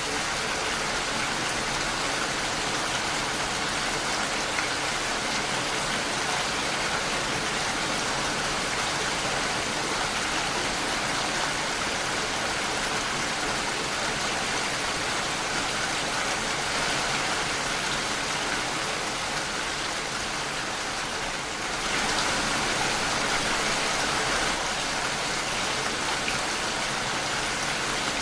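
Steady rain falling against a window pane, an even, dense hiss of drops, briefly louder for a couple of seconds about three quarters of the way through.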